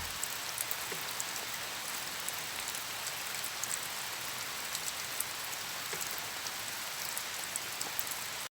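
Steady rain falling, with scattered louder drops ticking through the hiss.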